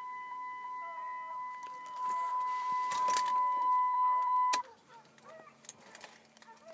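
A steady electronic warning tone that cuts off suddenly about four and a half seconds in, with keys jangling and clicking around the middle; afterwards only a faint low hum.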